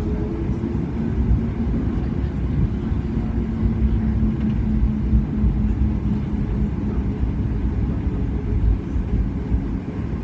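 Cabin noise inside a Boeing 737 MAX 8-200 on the ground after landing: a steady low rumble with a faint steady hum above it.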